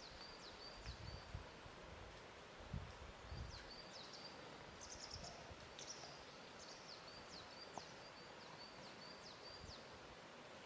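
Faint water lapping at a lake shore over a steady hiss, with soft low thuds in the first few seconds. A small bird chirps repeatedly throughout, with quick high notes and short falling whistles.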